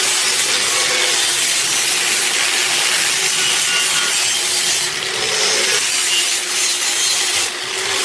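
Abrasive power tool working on rusted steel: a loud, steady grinding hiss that stops abruptly near the end.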